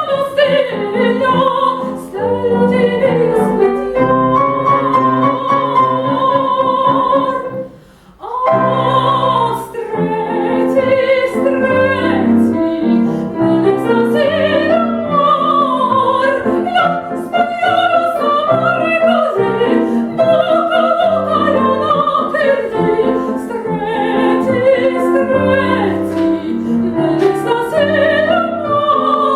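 Classical operatic singing with vibrato over piano accompaniment, in a loud, sustained vocal piece. The music breaks off briefly about eight seconds in, then resumes.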